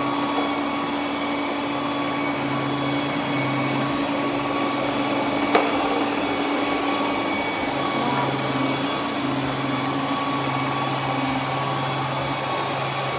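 Roborock Q10V+ robot vacuum running on hard floor: a steady whir of its suction motor with a constant hum, a lower hum that cuts in and out, and a single sharp click about halfway through.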